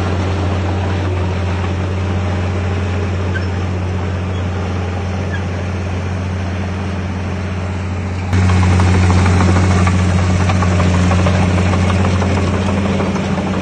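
Diesel engine of heavy earthmoving equipment running steadily with a deep hum. About eight seconds in, it abruptly becomes louder.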